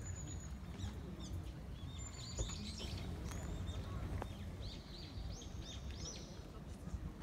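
Small birds chirping in the background: scattered short high calls, with a quick run of repeated arching notes about five seconds in, over a steady low outdoor rumble.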